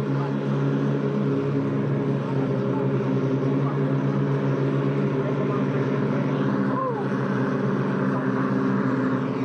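Boat's Mitsubishi L300 engine running at a steady drone, its pitch dipping slightly about a second and a half in.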